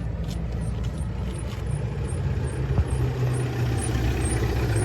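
A vehicle engine running steadily, a low hum that grows a little louder from about two seconds in.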